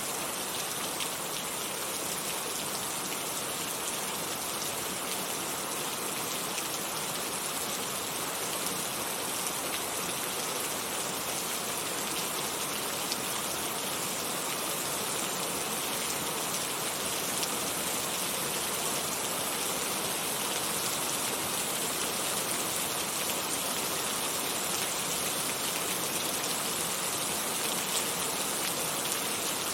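Heavy rain falling steadily, an even hiss of countless drops pattering on surfaces with no change in strength.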